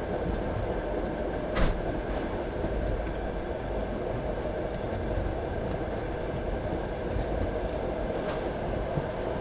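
Passenger railway carriage rolling along the track: a steady rumble of wheels on rail, with one sharp knock about one and a half seconds in and a lighter one near the end.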